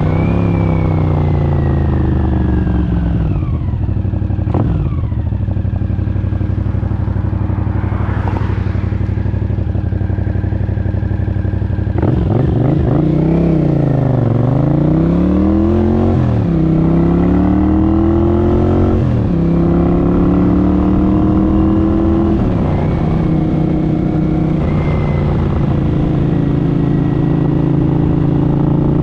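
1983 Honda CX650's V-twin engine on the move, with a high whine from the transmission over it. The revs fall away at first and hold steady, then about twelve seconds in they dip and climb again through a run of upshifts, each a sudden drop in pitch, before settling into a steady cruise.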